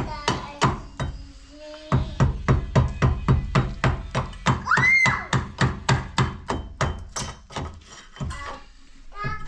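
Rapid, even hammer strikes, about four a second, with a brief rising high-pitched squeal about five seconds in.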